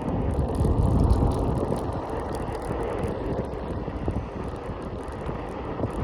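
Wind buffeting a handlebar-mounted phone's microphone, with the rolling noise of a Segway E3 Pro ridden at speed. It is a steady low rumble that swells about a second in.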